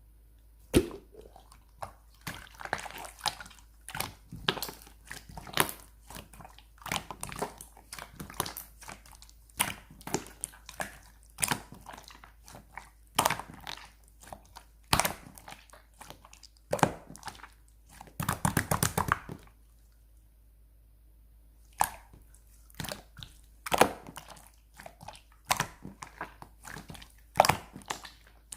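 A handmade squeeze toy (kkwakkwagi) being squeezed, tapped and handled, giving irregular sharp clicks and crinkly crackles. There is a dense crackling run about eighteen seconds in, followed by a short pause.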